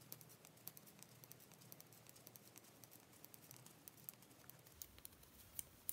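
Faint, quick, irregular clicking of two knitting needles as stitches are worked in garter stitch.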